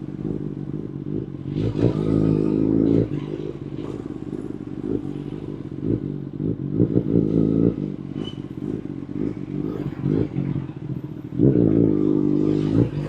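2019 Kawasaki Ninja ZX-10RR's inline-four engine through an Akrapovic Evolution Line carbon full exhaust system, ridden at low speed. Three short bursts of throttle come about two seconds in, around seven seconds in and near the end, with lower steady running between them.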